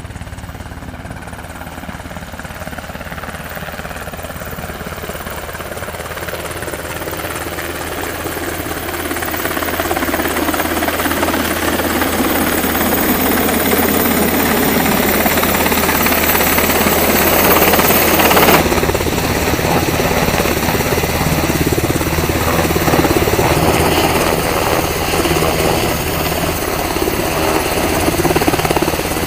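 HH-60G Pave Hawk helicopter's twin turboshaft engines and rotors running, a steady low drone that grows louder over the first ten seconds or so and then holds. The sound shifts abruptly about eighteen seconds in.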